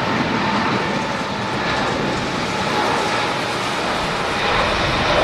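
Steady roar of jet airliner engines, with strong gusty wind rumbling on the microphone.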